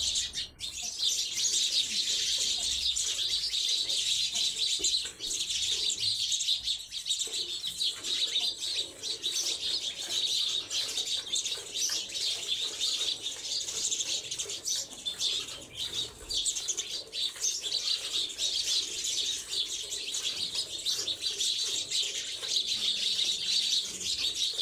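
A dense chorus of small birds chirping continuously, many short overlapping calls.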